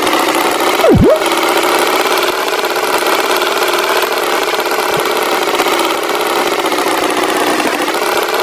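Tractor engine running steadily. About a second in comes a short, loud sound effect that sweeps steeply down in pitch and back up.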